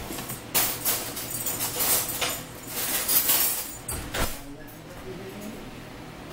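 Close-up eating sounds: crunching and chewing of fried fish and garlic toast in a string of noisy bursts, with a single knock about four seconds in, then quieter.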